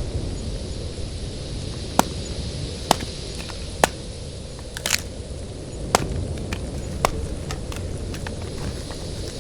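A series of sharp knocks, about one a second for several seconds, over a steady low rumble.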